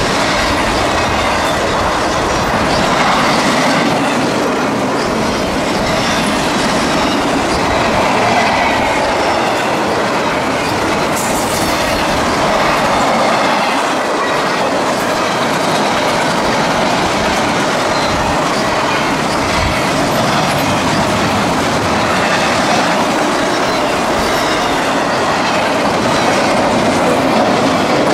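A CSX intermodal freight train's double-stack container cars and trailer flatcars rolling past close by: a steady loud rumble and clatter of steel wheels on the rails, with a faint high wheel squeal now and then.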